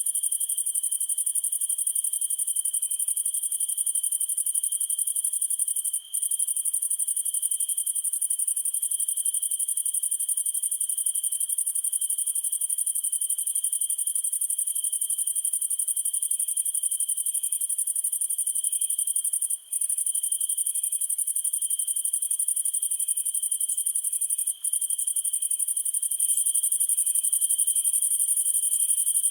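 Summer night insect chorus: a dense, steady, high-pitched cricket shrill with a lower steady trill beneath it, and one cricket chirping slowly and regularly. The whole chorus cuts out for an instant three times.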